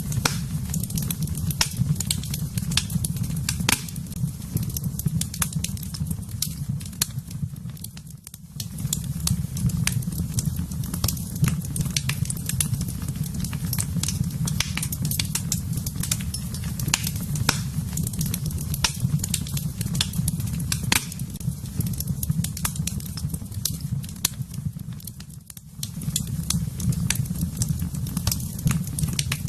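Fire burning in a fireplace: a steady low rumble of flames with constant irregular crackles and pops. It briefly goes quieter twice.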